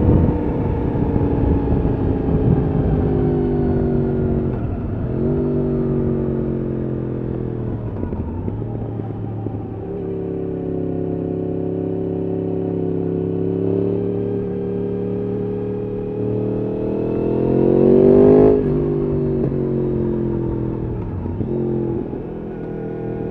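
Yamaha R1 RN22's crossplane inline-four with an Akrapovič exhaust, heard from the rider's seat: the engine note sinks as the bike slows, dips briefly a few times, then climbs steadily to a peak about eighteen seconds in and drops off sharply as the throttle comes off.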